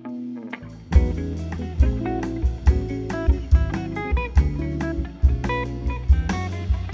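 Instrumental jazz-style band music: a softer guitar passage, then about a second in the bass and drum kit come in with the full band, the drums hitting at a steady beat under the guitar line.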